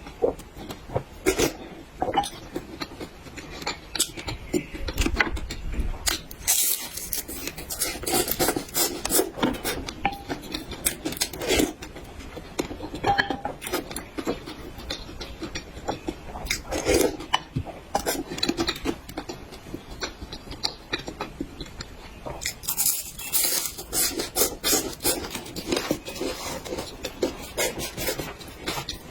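Close-miked eating sounds: chewing and mouth noises with many short clicks and scrapes, spread across the whole stretch.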